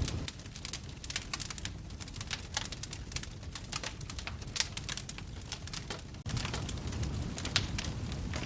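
Wood fire crackling in a fireplace, with many irregular sharp pops and snaps over a low rumble of the flames that turns suddenly louder about six seconds in.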